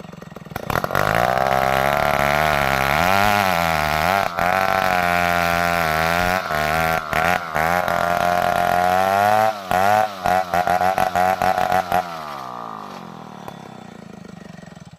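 Chainsaw engine revved up about a second in and run at high revs, its pitch wavering up and down, with several brief cut-outs that come thick between about ten and twelve seconds. It then drops in pitch, runs quieter and stops near the end.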